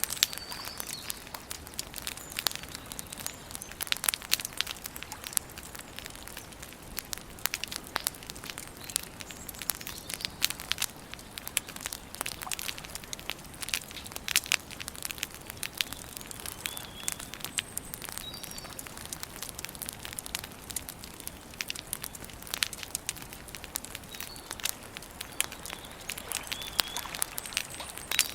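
Wood campfire crackling and popping, with a dense, irregular run of sharp snaps. Faint bird chirps come in a few times, mostly in the second half.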